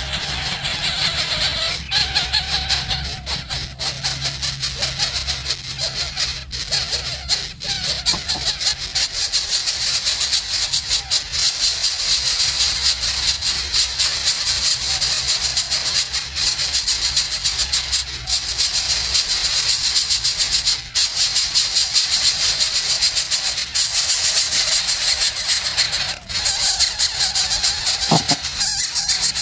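Nestling birds calling continuously, a dense, high-pitched rasping chatter over background music.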